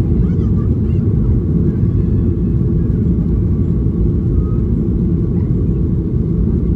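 Steady, loud low rumble of a jet airliner heard from inside the passenger cabin: engine and airflow noise, without distinct events.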